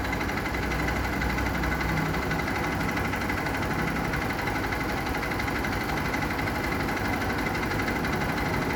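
Motorcycle engine idling steadily, with a faint steady high tone running through it.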